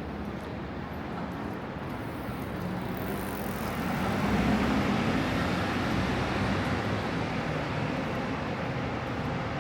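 A motor vehicle passing on a city street, its sound swelling about four seconds in and then slowly fading, over a steady hum of traffic.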